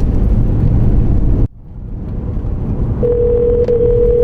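Low rumble of a moving vehicle's cabin. It drops out suddenly about a second and a half in, then builds back. About three seconds in, a phone's ringback tone sounds through the car's audio: a steady tone lasting about a second and a half, part of a call ringing before it is answered.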